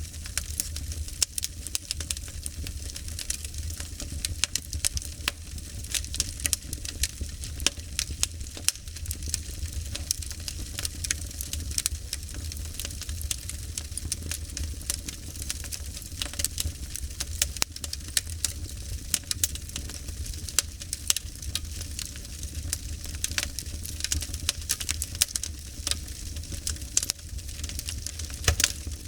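Wood fire crackling steadily, with irregular small pops and snaps over a low, steady rumble.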